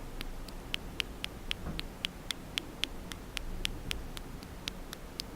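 Close-up ASMR mouth sounds: wet, sticky tongue and lip clicks, a quick even run of about four sharp clicks a second.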